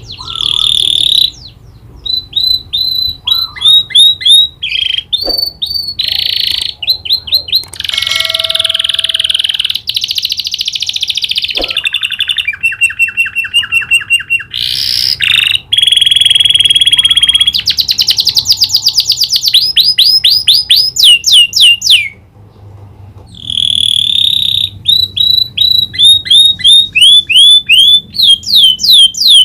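Domestic canary singing a long, loud, varied song of rapid repeated notes, fast downward-sweeping trills and buzzy rolls, with prenjak (prinia) click phrases learned into it. The song breaks off briefly near two-thirds of the way through, then resumes.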